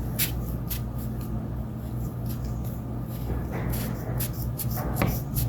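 Scissors snipping at a cotton ball: a scattering of short, sharp clicks with some soft rustling, over a steady low hum.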